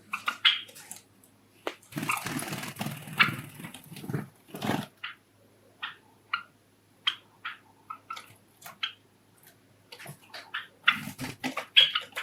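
Java sparrows giving many short, sharp chirps, with stretches of rustling and fluttering.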